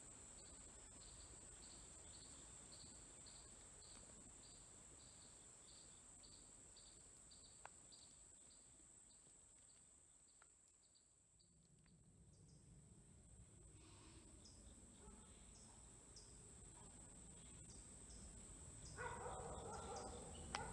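Insects calling: a steady high buzz with a rhythmic chirp about three times a second that stops about halfway through, and sparser chirps after. Near the end a dog starts barking.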